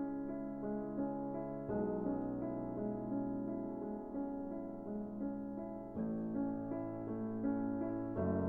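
Gentle background piano music, sustained notes and chords changing every few seconds.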